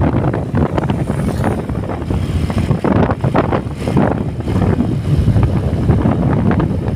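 Strong wind buffeting the microphone: a loud, uneven, gusting rumble.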